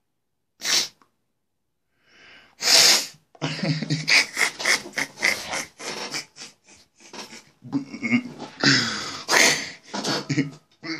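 A person's voice making loud sounds that are not words. A short sharp burst comes just under a second in and a louder one near three seconds, then a rapid, broken run of voiced bursts follows.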